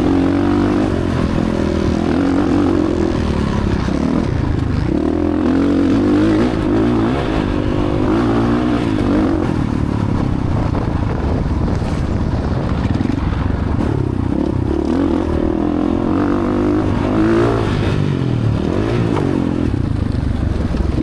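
Dirt bike engine on a motocross track, revving up and down repeatedly as the rider accelerates and backs off.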